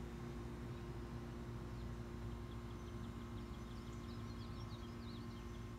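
Faint outdoor background: a steady low hum throughout, with a small bird twittering in quick high chirps about three seconds in.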